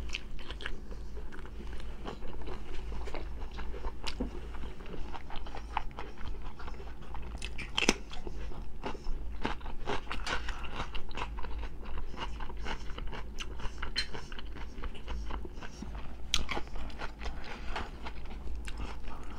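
Close-up mouth sounds of a person biting and chewing slices of sausage: many small wet clicks and crunches at an irregular pace.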